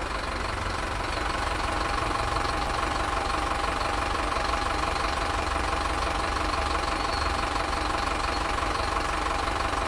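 Engine idling steadily with an even knocking rhythm, growing slightly louder over the first couple of seconds.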